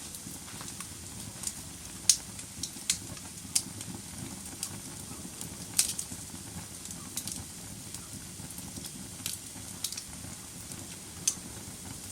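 Wood fire burning in a fireplace: a steady low rumble of the flames with irregular sharp crackles and pops, the loudest about two seconds in, near the middle and near the end.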